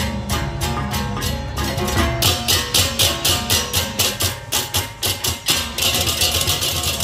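Balinese baleganjur gamelan playing: rapid, evenly spaced crashes of ceng-ceng kopyak hand cymbals over drums and ringing gong tones. About two seconds in the cymbal strokes grow louder, and near the end they merge into a continuous shimmering wash.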